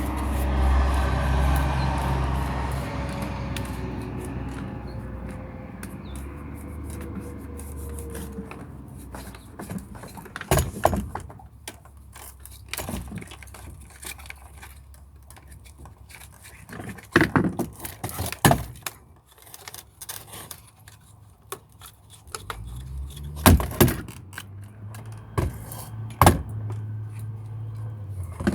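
Shark vacuum cleaner motor spinning down, its pitch falling and fading over several seconds. Then a run of sharp plastic clicks and knocks as the vacuum's parts are handled.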